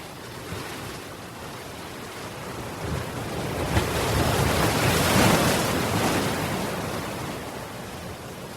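Ocean waves washing onto a shore: one wave builds from about three seconds in, breaks at its loudest around five seconds, and washes back out.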